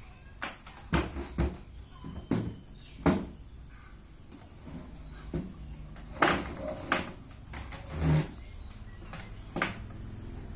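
A series of irregular sharp knocks and clicks, about a dozen spread unevenly over ten seconds, over a low background hum.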